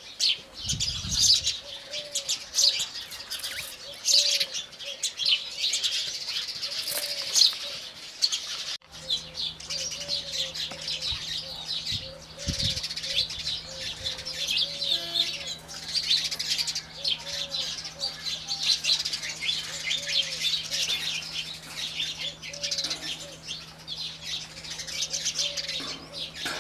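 A crowd of house sparrows chirping continuously, many short calls overlapping. From about nine seconds in, a steady low hum runs beneath the chirping.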